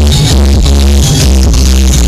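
Loud techno played over a free-party sound system, with heavy, pounding bass and a steady beat.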